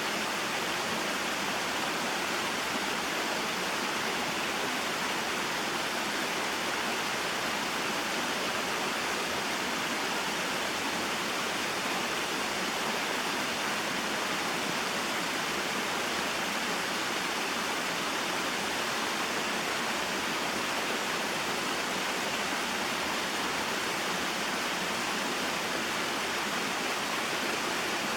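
Small mountain waterfall and stream, water splashing and running over rocks in a steady, unbroken rush.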